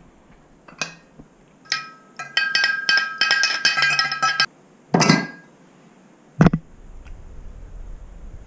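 Metal objects clinking and jingling, with a dense run of ringing clinks lasting about two seconds, then a heavy thump followed by a faint low rumble.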